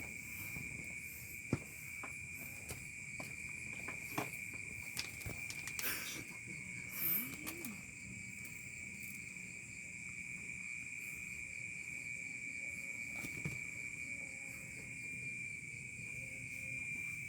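Steady high-pitched insect chorus, crickets chirring without a break. A few faint clicks and a brief rustle sound about six to seven seconds in.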